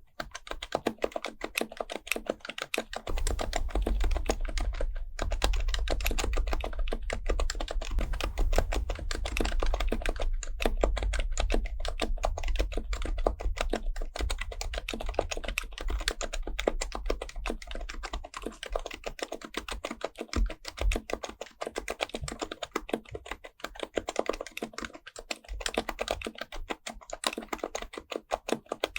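Steady, fast typing on an HHKB Professional Type-S keyboard with Topre electrostatic-capacitive switches: a dense run of soft keystroke clicks, with a low rumble beneath much of it.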